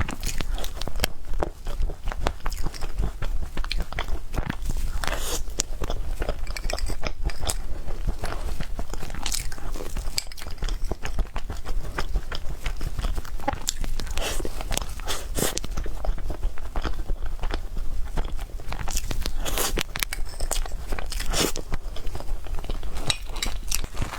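A person eating close to the microphone, biting and chewing with many irregular small clicks and smacks of the mouth, over a steady low hum.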